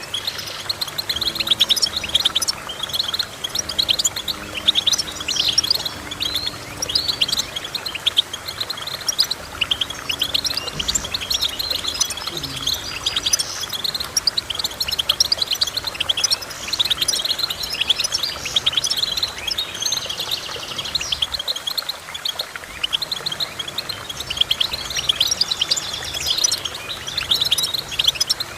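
Finch song: continuous rapid, high twittering and chirping, a dense run of short notes with a brief lull a little past two-thirds of the way through.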